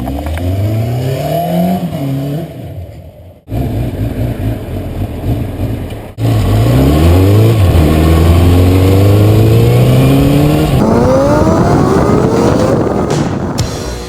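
Suzuki GSX550 motorcycle's inline-four engine accelerating through the gears: the pitch climbs, drops back at each upshift and climbs again, with a long pull in a higher gear. The sound breaks off abruptly twice, about three and a half and six seconds in.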